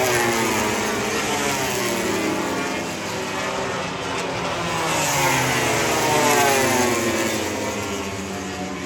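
Four-cylinder MotoGP race motorcycles passing at speed, their engine notes falling in pitch as each goes by. There is one pass near the start and a second, louder one from about four seconds in, peaking around six seconds.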